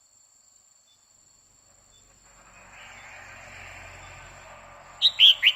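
Female red-whiskered bulbul giving a quick run of three or four loud, sharp notes near the end. A steady hiss comes up about two seconds in, before the notes.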